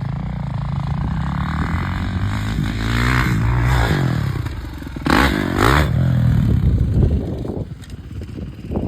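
Dirt bike engine revving in second gear, climbing in pitch as it accelerates, dropping briefly about four and a half seconds in, then loud revving again before fading near the end.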